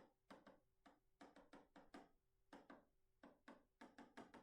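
Light, quick taps of a pen striking a writing surface as notes are written, irregular at about five a second.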